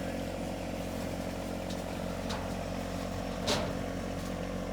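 A vehicle engine idling steadily, with a few light ticks and one sharper click about three and a half seconds in.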